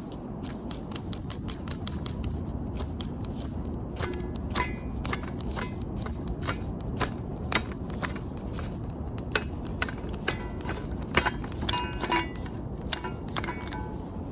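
Ferrocerium fire starter (ferro rod) being struck over and over with its scraper, a quick scraping strike about twice a second, some with a faint metallic ring, over steady wind noise.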